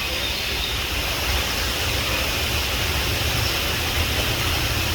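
Steady rushing outdoor noise: an even low rumble with a hiss above it, unchanging, with no distinct bird calls.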